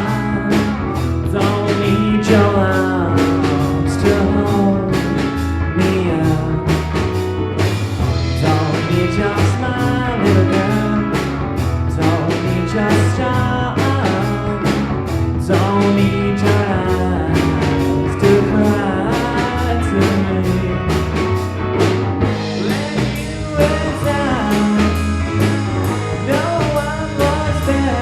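A live band playing a song with a singer, guitar, bass and drums, at a sound check.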